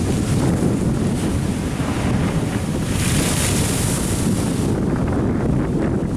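Wind buffeting the microphone over the wash of ocean waves along a sea wall, with a louder hiss of surf from about three seconds in that dies away a little before five seconds.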